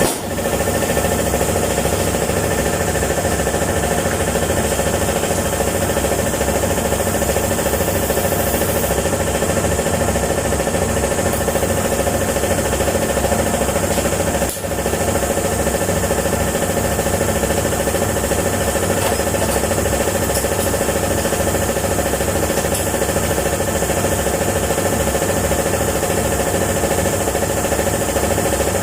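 A machine running steadily with a fast, even pulsing rattle and a steady hum. It dips briefly about halfway through, then carries on the same.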